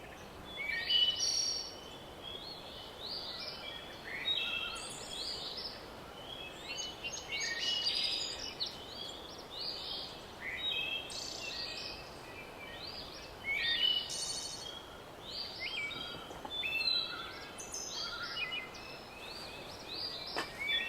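Songbirds singing in a forest, many short chirps and trills, some overlapping, over a faint steady background hiss.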